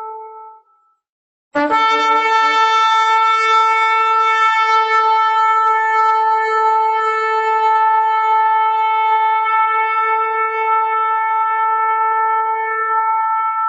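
Shofar blowing. A note trails off at the start, and after about a second of silence a new blast begins. It breaks up from a lower pitch into one long, steady, bright note.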